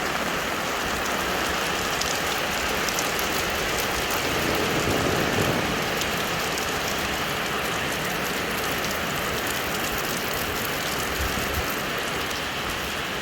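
Rain pouring down steadily in a storm, an even hiss with faint scattered drop ticks.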